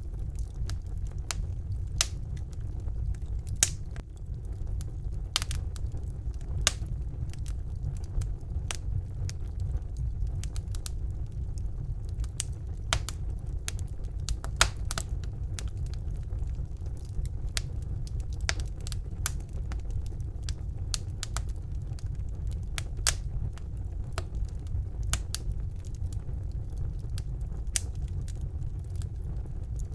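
Wood fire burning in a fireplace: a steady low rumble of the flames with irregular sharp crackles and pops from the burning logs, a few a second.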